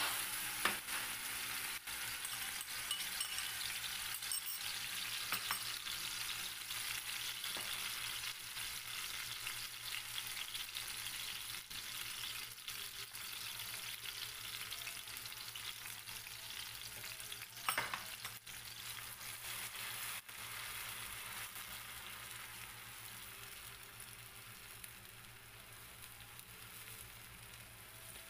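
Blended green chilli paste sizzling in hot oil in a frying pan, loud at first and gradually quietening as it cooks, with one brief knock about eighteen seconds in.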